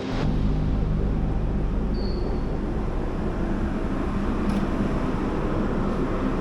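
Ferry engine running steadily with a low drone and a wash of noise, with a short high beep about two seconds in.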